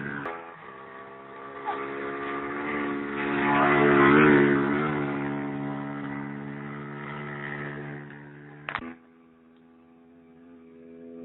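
Motocross dirt bike engine running at a steady pitch, growing louder to a peak about four seconds in and then fading away. A sharp click comes near the end, after which the engine is only faint.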